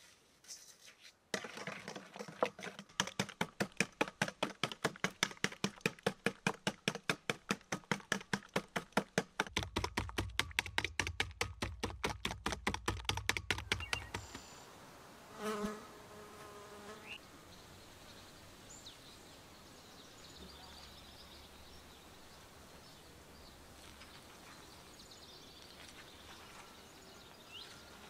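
Food being beaten by hand in a bowl: quick, even strokes, about five a second, that stop about fourteen seconds in. Then a brief pitched call and faint bird chirps.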